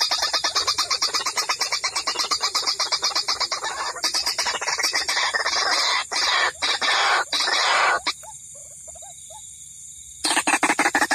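Recorded lure call of white-breasted waterhens, a fast, continuous run of repeated calls. Near the end it drops for about two seconds to a quieter stretch with a few low calls, then the fast calling resumes.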